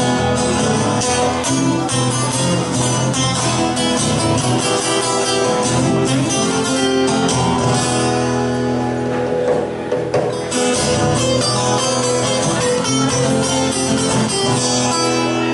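Two guitars playing a Spanish-style instrumental live: a rhythm guitar strumming chords under a lead guitar picking fast runs of notes.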